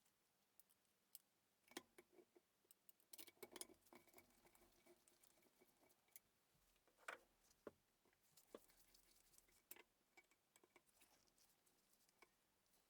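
Near silence, broken by faint, irregular small clicks and light taps, a small cluster of them a few seconds in and a slightly stronger tap about seven seconds in.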